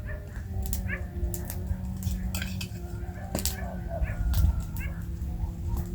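Wood campfire crackling: irregular sharp pops and snaps of burning firewood over a low rumble, with a few short high chirps.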